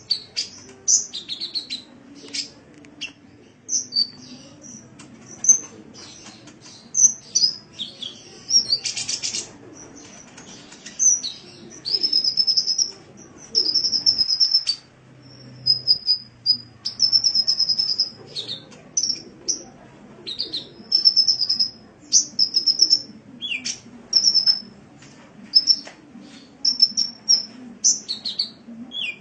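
Sunbird song: rapid high chirps and short trilled phrases, repeated again and again with brief pauses between them.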